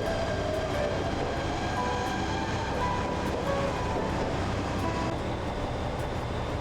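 A train standing at a station platform, running with a steady low hum, with scattered short higher tones over it.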